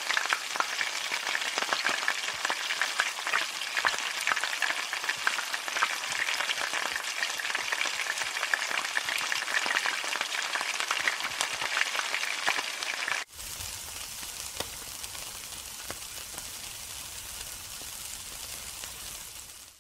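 Food sizzling and crackling in hot oil in a wok, with many sharp pops. About thirteen seconds in it cuts to a quieter, steadier sizzle over a low hum: meat skewers cooking on a grill.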